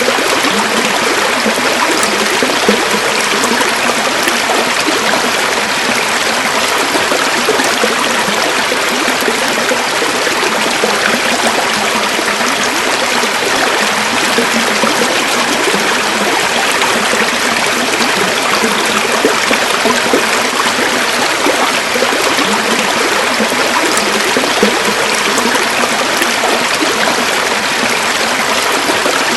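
A river or stream flowing and burbling steadily.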